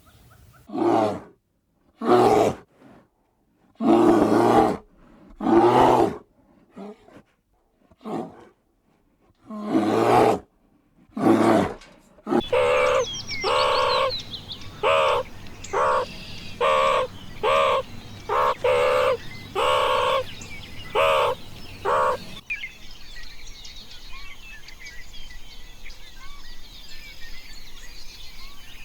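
Animal calls in edited bursts: about eight separate calls with silence between them, then a quicker run of repeated calls, a little under two a second. Near the end these give way to an outdoor background of small birds chirping.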